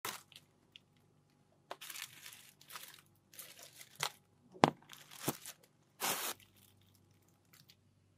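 Crisp, juicy watermelon flesh crunching and tearing in a string of close-up bursts, with one sharp crack about halfway through.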